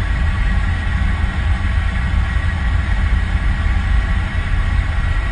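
Airplane engine noise: a steady, deep rumble with a faint high steady tone above it.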